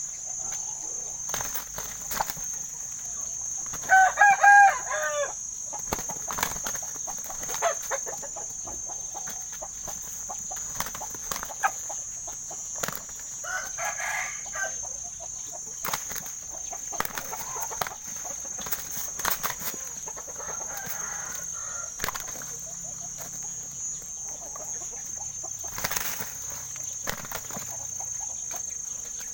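Gamecocks crowing and clucking, the loudest a rooster's crow about four seconds in, with repeated short wing-flapping and scuffling sounds throughout.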